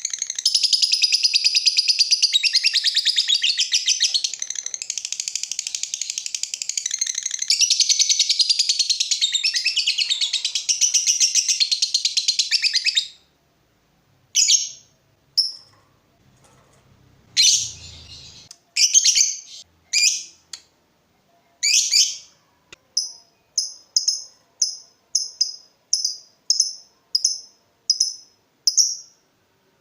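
Lovebird singing: a long, rapid, high-pitched chattering trill that runs for about thirteen seconds and stops suddenly. After a short gap come a few separate sharp chirps, then a steady run of short chirps about two a second.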